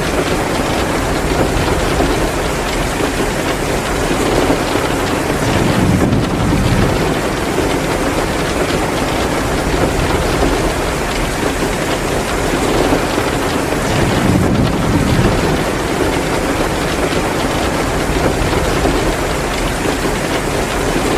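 Heavy rain pouring steadily, mixed with the crackle of a wood fire in a fireplace. A low rumble swells up twice.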